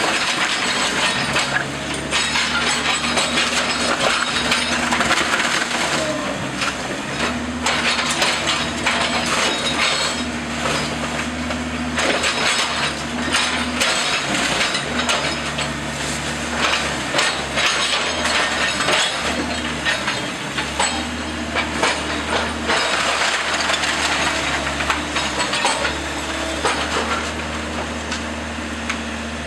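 A house being torn down: wood cracking and splintering and some glass breaking, many sharp snaps one after another. Under it a heavy machine's engine runs steadily, swelling and easing as it works.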